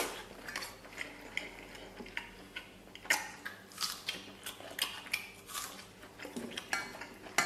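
A person chewing braised pork knuckle with the mouth, giving irregular short wet smacks and clicks.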